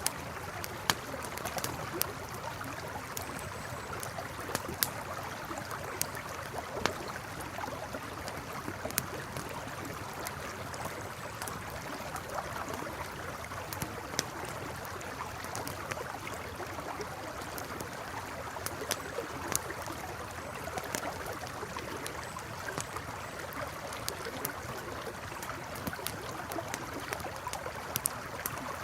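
A river flowing steadily, with a campfire crackling over it in irregular sharp pops and snaps.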